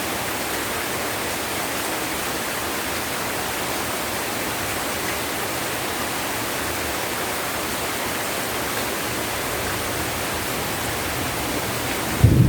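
Heavy rain pouring down in a steady, even hiss. Near the end a thunderclap breaks in with a sudden loud low rumble.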